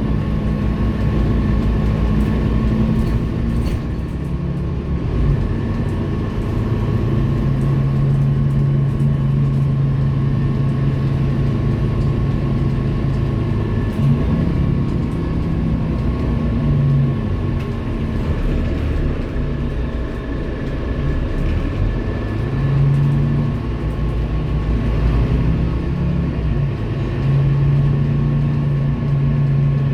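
Scania K230UB city bus's diesel engine running under way, its pitch rising and falling several times as the bus speeds up, shifts and slows, with a steady high whine above it.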